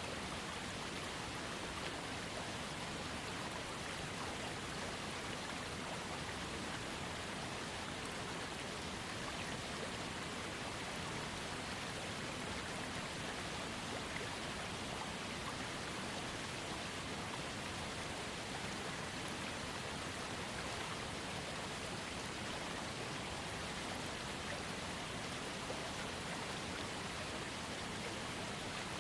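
Small waterfall on a trickling creek: a steady, even rush of falling and splashing water.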